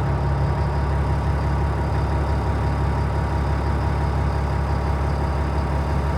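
Diesel engine of a 2003 Stewart & Stevenson M1078 military truck idling steadily seconds after a cold start, heard from inside the cab.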